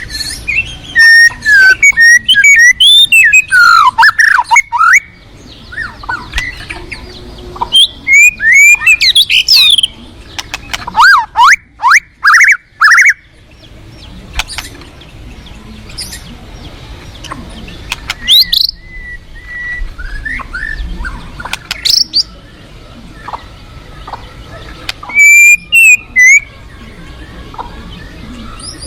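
White-rumped shama singing loud bouts of rich whistled phrases with fast rising and falling glides, separated by pauses of a few seconds, over the steady rush of a fast-flowing river.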